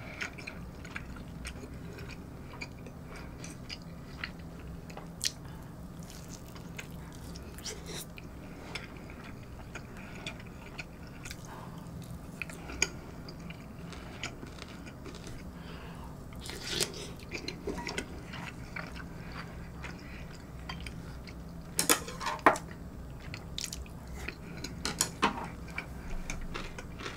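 Close-miked chewing of soft, stew-soaked kimchi pork-cutlet stew with rice and noodles, with many small scattered mouth clicks and smacks, a few louder ones around 17 and 22 seconds in, over a steady low hum.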